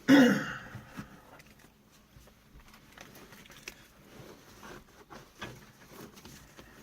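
Seat belt being fastened in a car: faint rustling of the belt and seat with scattered small clicks. It opens with a brief vocal sound.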